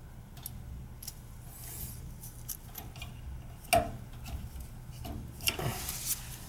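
Scattered light clicks and taps of hands handling wires and small furnace parts during rewiring, with one sharper knock near the middle and a brief scraping rustle near the end, over a low steady hum.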